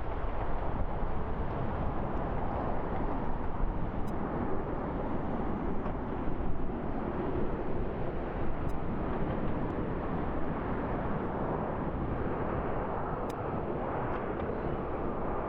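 Boeing 747-8 jet engines on a landing approach: a steady rushing noise that holds evenly with no sharp events.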